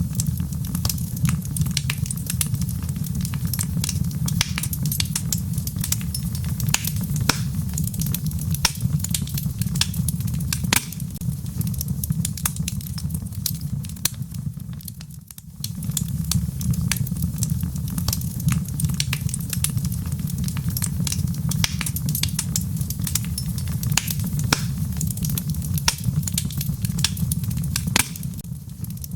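Wood fire in a fireplace crackling: dense, irregular sharp pops over a steady low rumble, with rain pattering in the background. The sound drops briefly about halfway through, then carries on.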